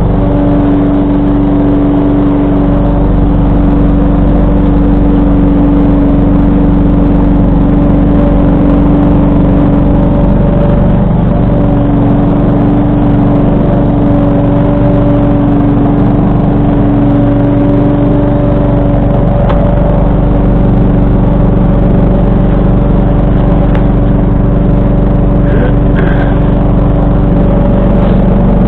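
John Deere 445 lawn tractor's V-twin engine running steadily at constant speed with the 47-inch snowblower, a steady whine riding over the engine note.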